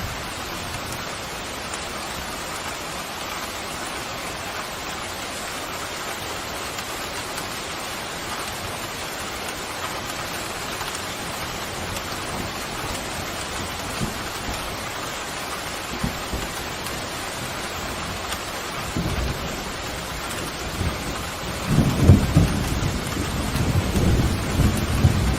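Steady heavy rain hiss. About three-quarters of the way through, thunder starts rumbling in low and swells louder toward the end.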